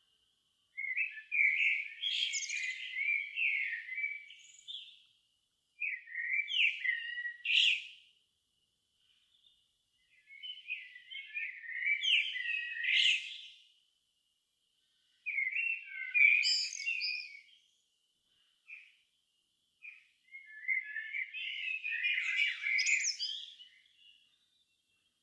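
A songbird singing in five separate warbled phrases, each a few seconds long, with short pauses between them and a couple of single short notes in one gap. A faint, steady high thin note runs in the background.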